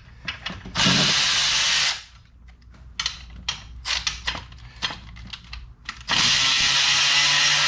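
Cordless electric ratchet running in two bursts, a short one of about a second near the start and a longer one of over two seconds near the end, with light clicks and taps of handling between them.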